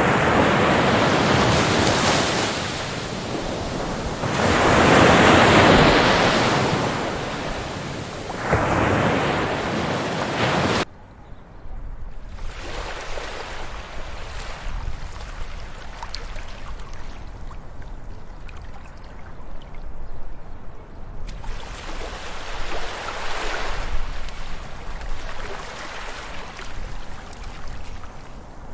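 Ocean waves breaking and washing up a beach in slow swells. About eleven seconds in the sound cuts abruptly to a quieter stretch of gentler surf, which swells again later on.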